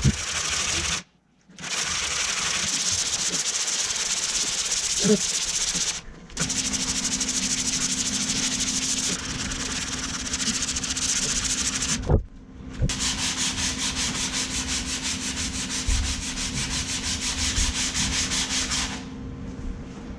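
Hand block sanding with 80-grit sandpaper on a big styrofoam block, rasping back and forth across a truck bed's side panel to block out a dent. The strokes stop briefly three times and end near the close.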